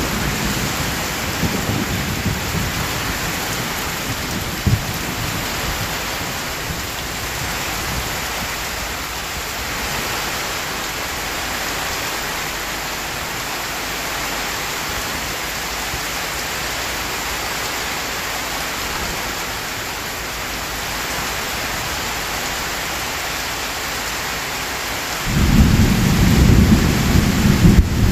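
Heavy rain falling steadily, with a low rumble of thunder dying away in the first couple of seconds and a single sharp tap about five seconds in. A loud rumble of thunder breaks in about three seconds before the end.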